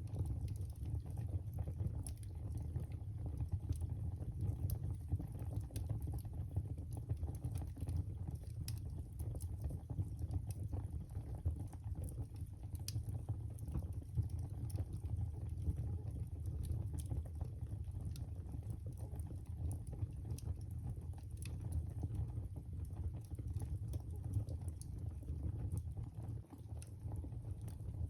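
Fire burning in a fireplace: irregular crackles and small pops over a steady low rumble of the flames.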